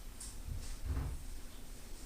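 Two dull, low thumps about half a second apart, with a few faint light clicks, like something being handled or knocked.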